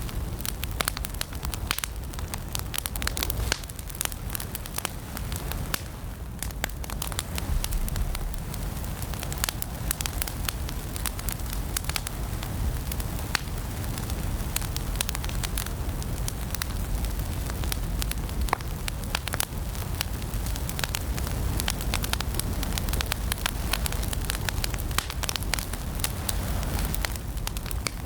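Wood fire burning in a fireplace, with dense, irregular crackles and pops over a steady low rumble of the flames.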